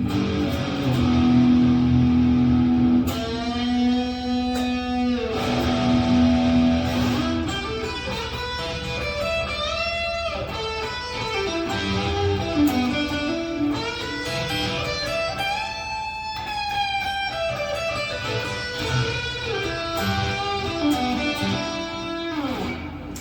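Solid-body electric guitar played through an effects pedal into a small speaker, with effects switched on: held notes and chords with notes bending up and down in pitch.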